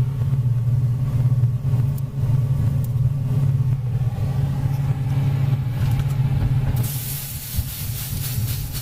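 Microwave oven running with a steady low hum. About seven seconds in, a loud hiss with crackles joins it as the laser appliance inside melts down.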